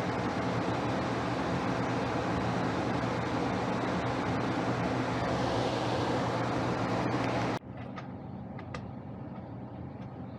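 Steady machine hum with a constant low drone that cuts off abruptly about seven and a half seconds in. A quieter hum and a few sharp clicks follow.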